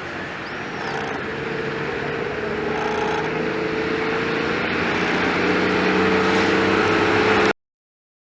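Boeing 767-300 jet engines at takeoff thrust, a steady roar with a humming tone that rises slightly in pitch and grows louder as the airliner comes closer. It cuts off suddenly near the end.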